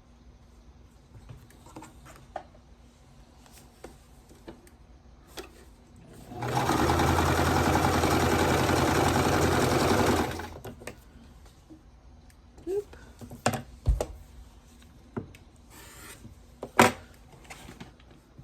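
Sewing machine running steadily for about four seconds as it stitches a seam, starting and stopping cleanly. Quiet fabric handling comes before it and a few light clicks and taps after.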